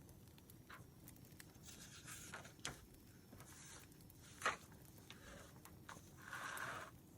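Faint desk sounds of stationery and paper being handled during note-taking: scattered light ticks, one sharp click about four and a half seconds in, and a brief scratchy rustle near the end, over a faint campfire crackle.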